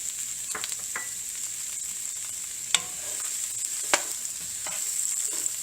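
Onions, spices and cashews sizzling in hot oil in a pan, with a few sharp clicks of a spoon or spatula against the pan, two of them louder, about three and four seconds in.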